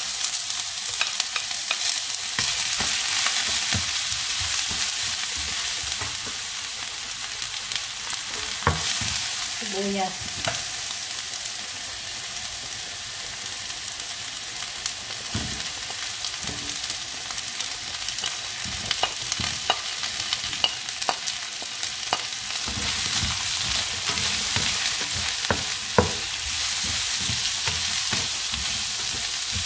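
Chopped garlic and diced onion sizzling in hot oil in a stainless steel wok, with a slotted spatula scraping and tapping against the pan in scattered clicks and knocks as the food is pushed in and stirred.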